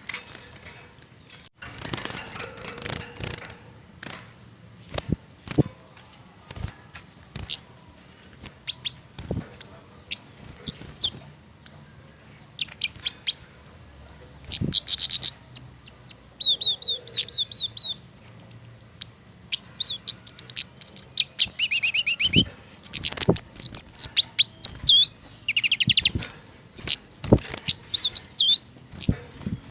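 A kemade (cici geni), a small mistletoe-fruit-eating songbird, calling and singing in rapid, high, thin chirps and short trills. The first part has only scattered sharp clicks and a few faint chirps; from about halfway the chirping turns dense and nearly continuous.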